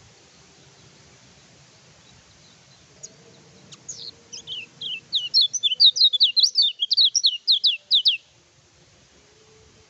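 Lemon-bellied white-eye (kecial kuning) singing: a few single chirps about three seconds in, then a fast, loud run of high, downward-sweeping chirps, about five a second, that cuts off abruptly near eight seconds.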